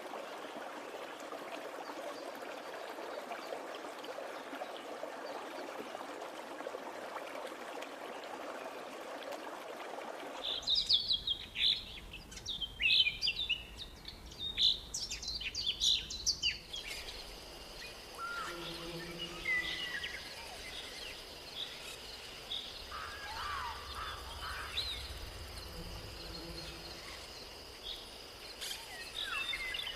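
Rainforest ambience: a steady hiss for about the first ten seconds, then an abrupt change to birds chirping and calling rapidly. After that comes a steady high insect drone under scattered bird calls.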